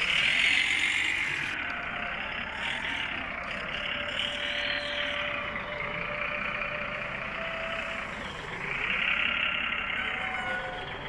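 Small motor and gears of a toy RC tractor whining as it drives, swelling louder about a second in and again near the end.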